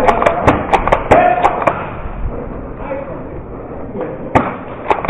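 Airsoft guns firing: a quick run of sharp cracks through the first couple of seconds, then two more shots near the end, with players' voices shouting in between.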